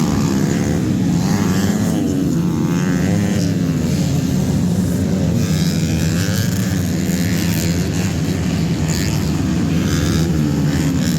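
Several motocross bike engines running together, their pitch rising and falling as riders rev up and ease off, over a steady engine drone.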